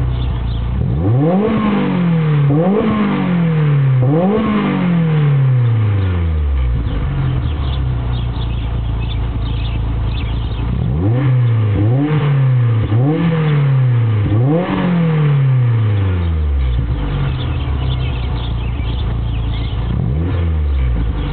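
1996 BMW E36 318is four-cylinder engine with a Stromung aftermarket exhaust, idling and blipped: three quick revs, a stretch of idle, then four more revs, and a small blip near the end. Each rev climbs fast and falls back slowly.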